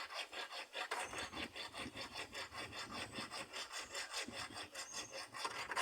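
A bare hacksaw blade, held in the hand without a frame, sawing back and forth on a steel chassis bolt in quick, even strokes of about four a second. The bolt keeps spinning under the blade because its nut has come loose inside the chassis, so the cut does not bite.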